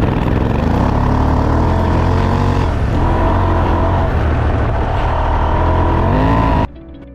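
Motorcycle engine running as it is ridden, its pitch rising and falling with the throttle, over heavy rushing noise. It cuts off suddenly near the end.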